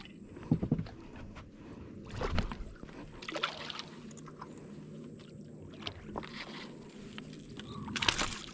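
Water splashing and sloshing around a small boat, with scattered knocks and bumps, as a hooked bass is brought in and landed. A faint low hum runs through the middle.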